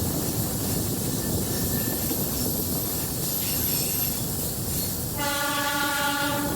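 Diesel-electric multiple unit (DEMU) train running on the rails with a steady rumble and rattle; about five seconds in, the train's horn sounds one steady blast that lasts over a second.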